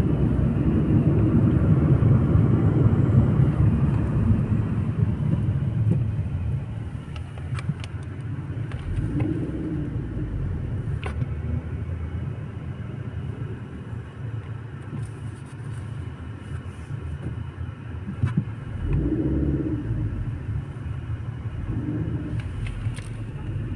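Car driving: a steady low road and engine rumble heard from inside the cabin, louder for the first few seconds and then easing off.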